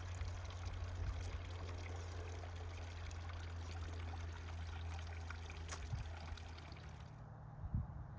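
Steady sound of running or pouring water, with a steady low hum under it that shifts a little higher in pitch near the end.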